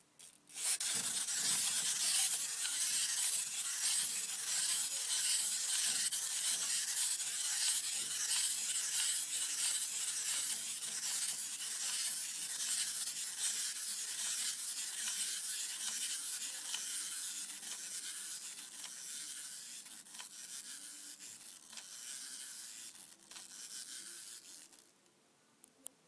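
Plastic Angry Birds spinning toy from McDonald's Rio range whirring as it spins, a steady rasping hiss that starts about a second in. It slowly weakens and turns uneven as the spin runs down, then stops about a second before the end.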